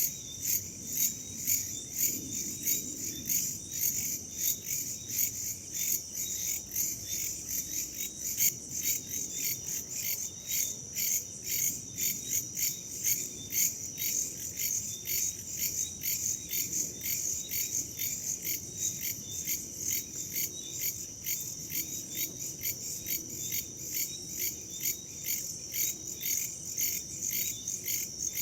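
A chorus of crickets chirping in a steady, even pulse, high-pitched and unbroken, over a soft low rush of wind.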